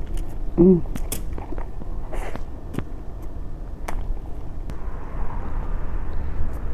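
Close-miked eating: scattered clicks of chewing and mouth sounds over a steady low rumble, with a short vocal sound about half a second in and a brief hiss a little after two seconds.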